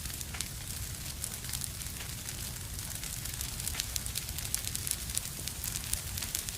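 Wood fire burning in a fireplace: a steady hiss with frequent small crackles and pops, busier in the second half, over a low rumble.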